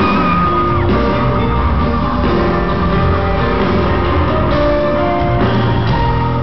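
Loud live pop-rock concert music in a large hall, a dense, steady mix with held notes over a steady low end.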